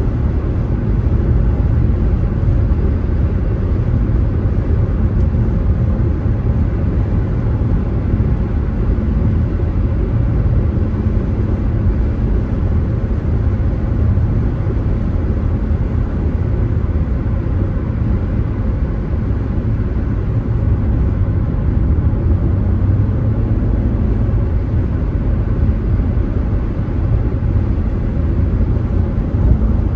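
A car driving at a steady pace: a constant low rumble of engine and tyre noise, with no change in speed or pitch.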